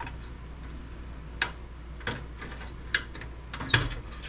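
About five separate sharp metal clicks and taps from a screwdriver and its bits being handled and tried on a small screw, the loudest near the end.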